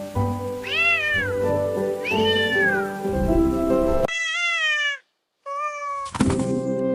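A cat meowing about four times, each call rising then falling in pitch, over light background music. The music drops out about four seconds in, leaving two meows on their own with a brief gap of silence between them, then comes back with a sharp click.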